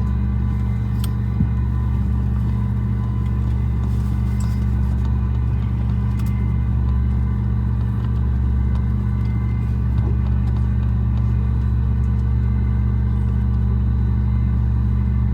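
Steady low drone inside a Boeing 737 MAX 8 passenger cabin, a constant hum with several steady tones layered over it.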